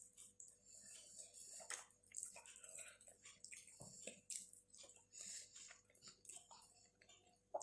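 Close-miked chewing and wet mouth sounds of someone eating soft food (rice with palak paneer and mashed-potato aloo chokha): faint, irregular smacks and squishes.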